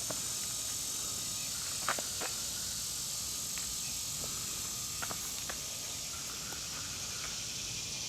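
Steady high-pitched background hiss, with a few light clicks scattered through it.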